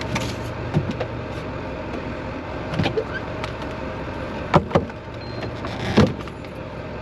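Steady engine and road noise heard from inside the cab of a 1996 Ford F350 with a 7.3 Powerstroke diesel, broken by several sharp clicks and knocks, two in quick succession about halfway through and another near the end.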